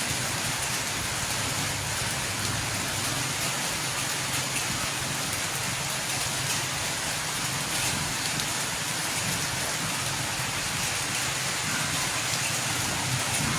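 Steady rain falling: an even, unbroken hiss, with a faint low hum underneath.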